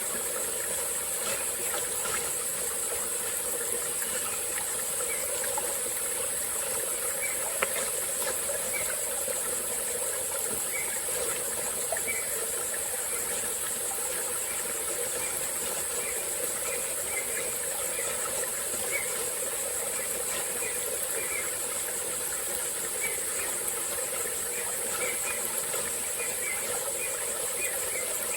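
Tropical-forest insects keeping up a steady, high-pitched drone over the running of a small forest stream. Short high chirps are scattered through it, coming more often in the second half, and there are a couple of faint clicks.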